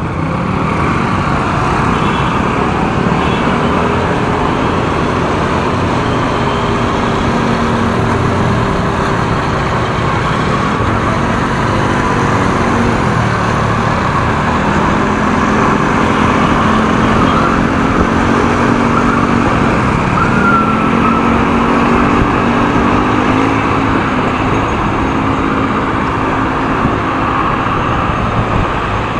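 Motorcycle engine running while riding in traffic, its pitch dipping and rising with throttle and gear changes, under steady wind and road noise.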